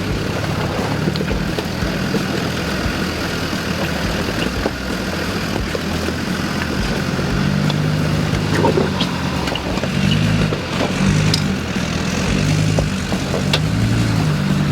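Off-road 4x4 engine running, steady at first, then revving up and down repeatedly through the second half.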